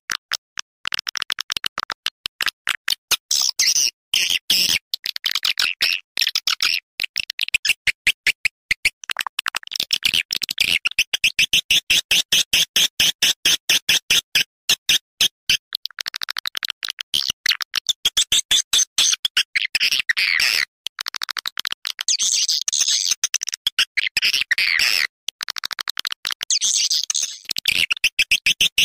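Swiftlet lure call track: a rapid twittering chatter of swiftlets, a dense stream of quick clicks broken every few seconds by short pauses. It is the kind of recording played to call swiftlets in to roost and nest.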